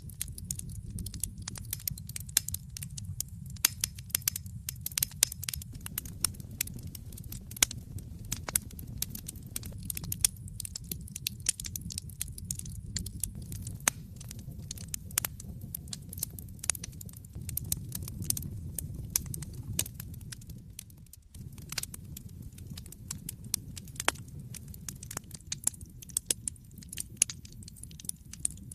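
Wood fire burning in a fireplace, crackling with frequent sharp pops and snaps over a steady low rumble of the flames. The rumble briefly drops away about two-thirds of the way through.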